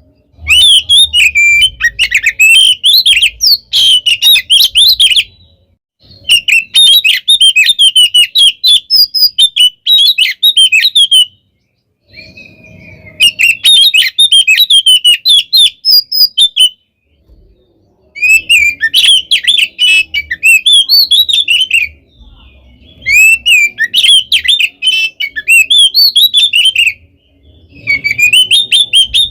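Oriental magpie-robin (kacer) singing a loud, fast, varied song of sharp whistled notes in phrases of several seconds, with short pauses between them. This is its aggressive 'tarung' (fighting) song.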